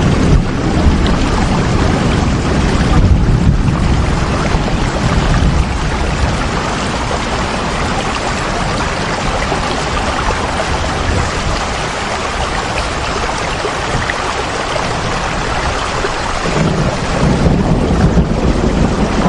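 Steady heavy rain, a loud, dense, even hiss. A low rumble under it swells near the start and again near the end.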